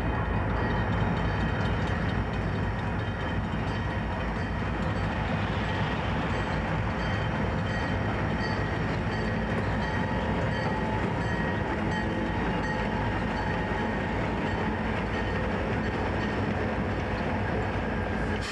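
Diesel freight train running past with a steady rumble from its locomotive engines and rolling cars.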